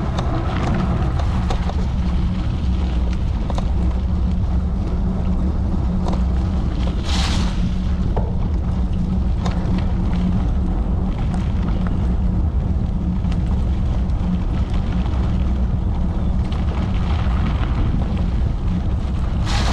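Wind rumbling steadily on the microphone while a gravel bike is ridden, with two short hisses, one about seven seconds in and one near the end.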